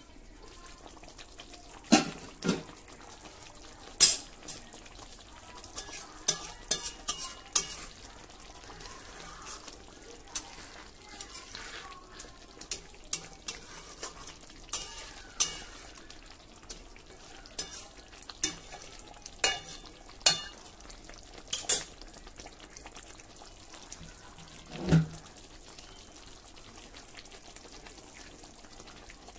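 Hilsa in mustard paste cooking in a steel pan, with a steady low sizzle. About twenty sharp metallic clicks and knocks on the steel vessel are spread throughout, and a duller knock comes near the end.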